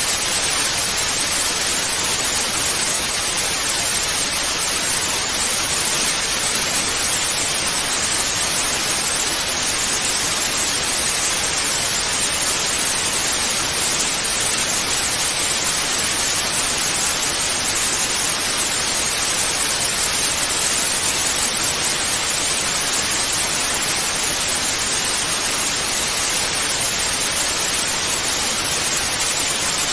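Television static: a steady, even hiss that does not change, strongest in the upper frequencies.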